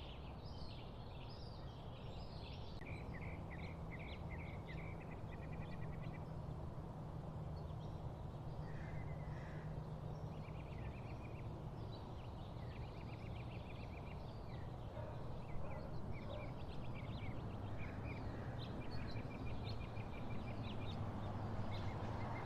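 Wild birds singing, with repeated short chirps and quick trilled runs, over a steady low background rumble.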